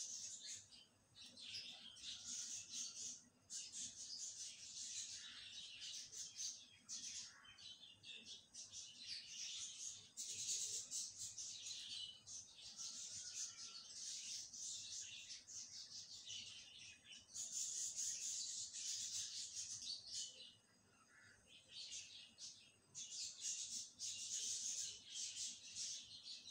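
Small birds chirping and twittering in a dense, fairly quiet chorus that comes in bursts of a few seconds with brief lulls.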